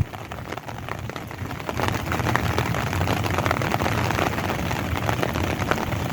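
Steady rain falling, with many small drop ticks, over a low, continuous rumble.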